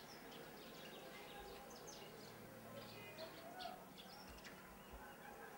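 Faint ambience with small birds chirping in short, scattered high calls, and a murmur of faint distant voices.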